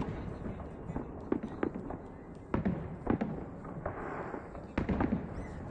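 Aerial firework shells bursting in a salute display: a string of sharp bangs at uneven intervals.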